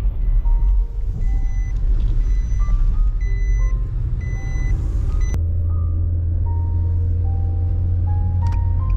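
Steady low rumble of a vehicle being driven, under background music: a simple melody of clear single notes. About halfway through there is a sharp click, after which the low hum is steadier and stronger.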